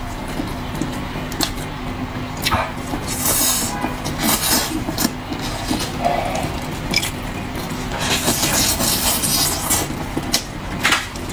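A person eating braised pork knuckle close to the microphone: chewing and smacking, with short clicks and a few longer crackly, rustling stretches over a steady low background hum.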